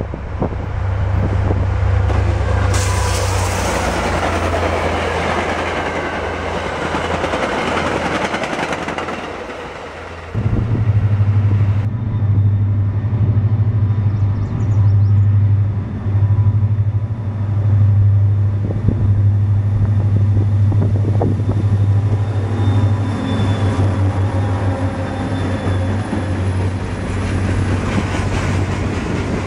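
Trains passing close by. In the first ten seconds a commuter train hauled by a GP40MC diesel locomotive rushes past; after an abrupt cut a freight train rolls by with a steady low diesel drone, and its boxcars are passing near the end.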